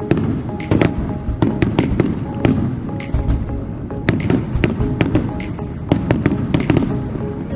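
Aerial fireworks bursting in quick succession, several sharp cracks and bangs a second, over music.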